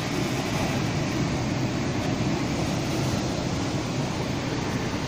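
Passenger train carriage running along the track, heard at an open window: a steady rumble of wheels on rails.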